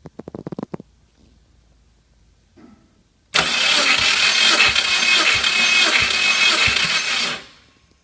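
Subaru EJ205 engine being cranked over by its starter motor for a compression test: a loud, even whirr for about four seconds, with a low thump roughly every 0.7 s, that winds down at the end. Just before it, a quick run of clicks.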